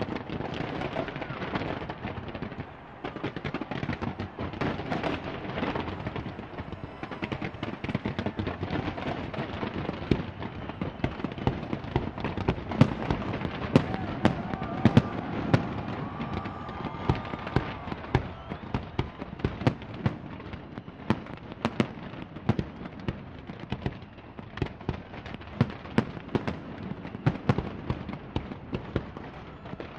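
Fireworks display going off: many sharp bangs and crackles in quick succession, loudest and most frequent through the middle stretch, over a steady wash of crowd noise.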